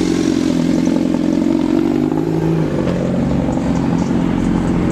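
A vehicle engine running loudly and steadily, its pitch sagging and rising a little as it revs.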